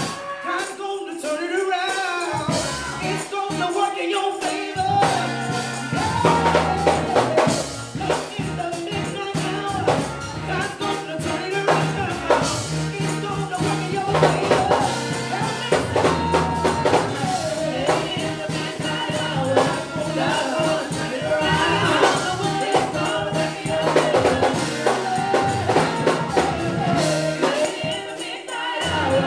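Gospel praise-break music: a tambourine beaten in a fast, steady rhythm over singing, with held bass notes coming in about five seconds in and dropping out near the end.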